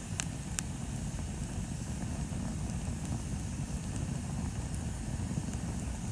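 Bonfire burning: a steady low rumble of the flames with a few sharp crackling pops, two close together near the start.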